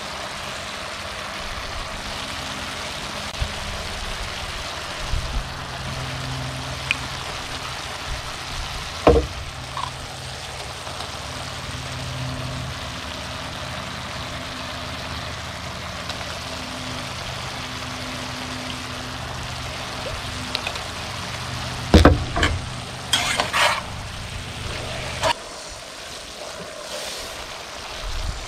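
Chopped vegetables and chicken hearts sizzling in a skillet on a grill, a steady frying hiss. A few sharp knocks and clatters come about 9 seconds in and again in a cluster near the end, and a low hum underneath stops shortly before the end.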